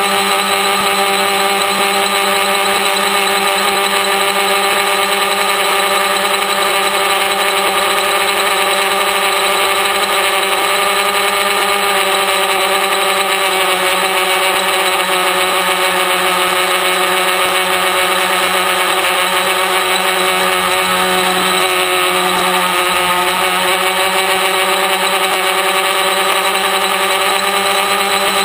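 Electric motors and propellers of a DIY T-copter running steadily in flight: a loud, continuous droning whine of several steady tones, its pitch wavering slightly about twenty seconds in as the throttle changes.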